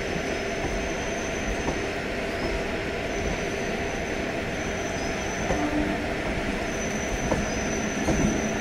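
Electric multiple-unit (EMU) suburban passenger train rolling slowly along the platform: a steady rumble of steel wheels on the rails, with a thin high wheel squeal that comes and goes.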